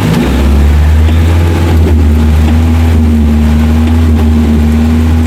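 Off-road 4x4's engine running loud and steady at constant revs, a low drone that settles in just after the start.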